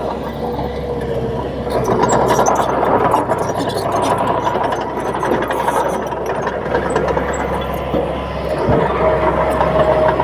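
Crawler bulldozer's diesel engine running steadily under work, with a constant droning note and light intermittent clatter.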